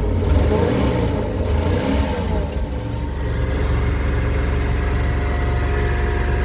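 Ford 351 Windsor V8 gasoline engine running steadily at idle.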